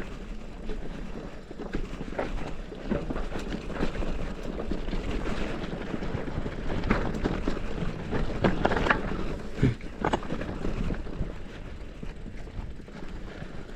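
Mountain bike rolling over a rough dirt trail: tyres on loose ground with frequent knocks and rattles from the bike, over steady wind noise on the microphone.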